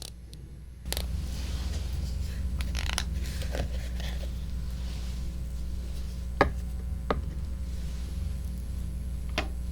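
Close-miked ASMR handling on a 3Dio binaural microphone: soft scratching and rubbing with a few sharp clicks, over a steady low hum that comes in about a second in.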